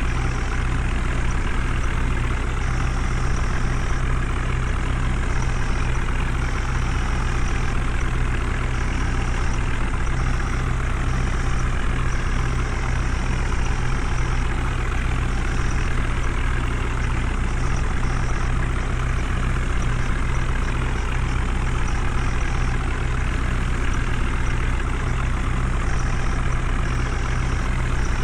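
Heavy diesel engine running steadily at an unchanging pitch, with a strong low hum.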